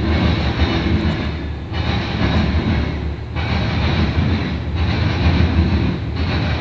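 Freight train's covered hopper cars rolling past at speed: a steady rumble of wheels on rail, with the hiss dipping briefly about every second and a half.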